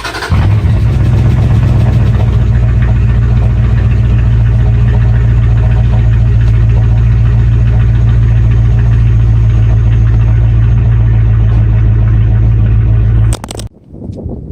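Dodge Dakota R/T's 5.9-litre V8 idling steadily and loudly, then cutting off abruptly near the end.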